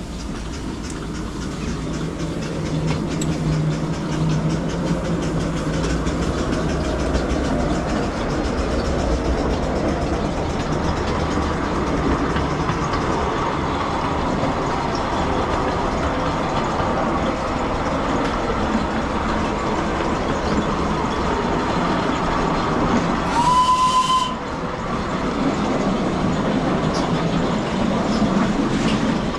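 Miniature steam railway train running along its track, a steady rumble of wheels on rail that swells over the first few seconds. One short whistle blast, a single steady note, sounds about 23 seconds in and is the loudest moment.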